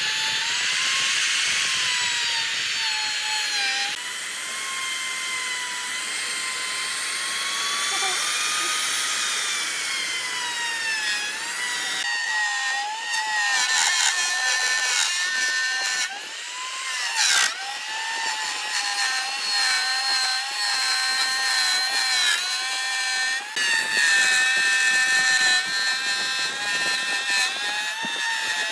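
Electric power tool running on wood, its motor whine sagging and recovering in pitch as the load changes, with a sharp knock about two-thirds through.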